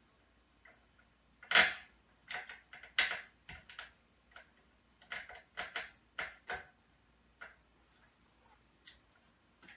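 Irregular clicks and knocks of metal hardware as winged toggle bolts and a light fixture are worked into a ceiling. The loudest knock comes about one and a half seconds in, with a cluster of smaller clicks later.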